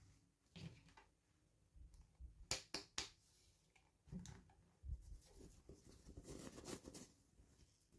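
Faint handling of toy packaging: three sharp plastic clicks in quick succession a few seconds in, then soft knocks and a light rustle.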